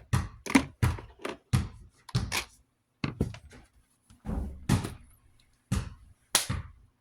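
A string of about ten irregular thunks and knocks as a plastic box fan is handled and shifted about on a workbench while being taken apart.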